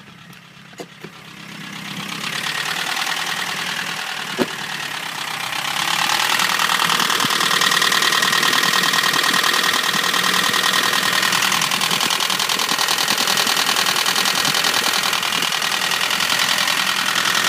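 BMW E30's M40 four-cylinder engine idling with a rapid, even tapping from the valvetrain, growing louder over the first few seconds; there is a single sharp click about four seconds in. The owner takes the tapping for tappets starved of oil, possibly from a clogged oil spray bar.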